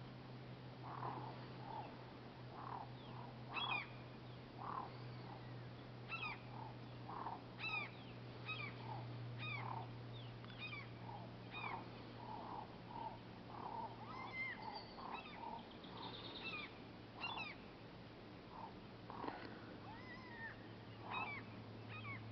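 Birds calling again and again, many short calls, several sliding down in pitch, about one every second, over a steady low hum.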